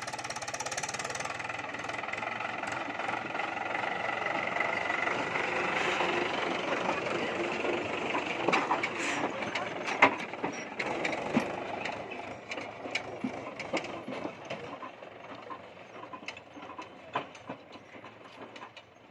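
Mahindra 575 DI tractor's diesel engine running, building up over the first several seconds and then easing off. Sharp knocks and clatter run through the second half, the loudest a single sharp knock about ten seconds in.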